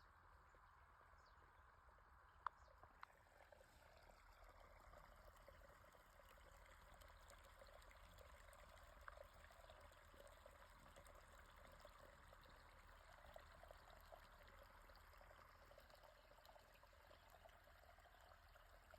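Near silence: a faint steady hiss, with one soft click about two and a half seconds in.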